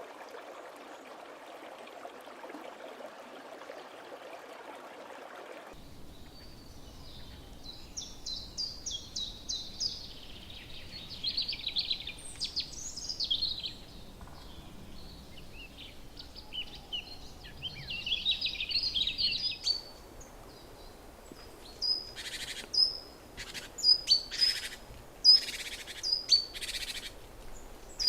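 Running water hisses steadily and cuts off sharply about six seconds in. Birds then call with high, chattering, trilling phrases. Near the end come a series of short, loud, sharp calls about once a second.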